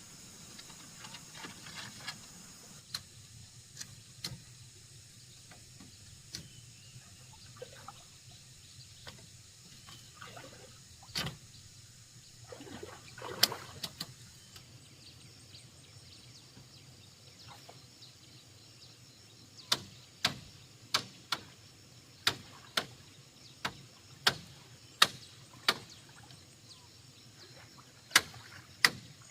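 Scattered sharp knocks or taps, with a quick run of about a dozen roughly a second apart in the second half, over a steady high chirring of insects.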